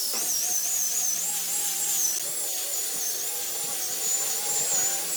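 High-speed electric power tool whining, its pitch wavering up and down as the load on it changes.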